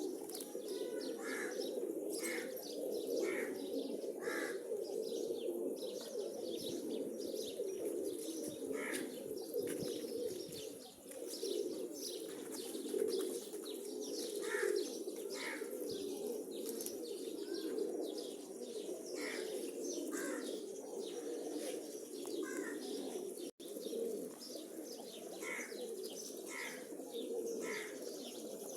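A flock of domestic pigeons cooing together in a steady, overlapping chorus, with short high chirps now and then.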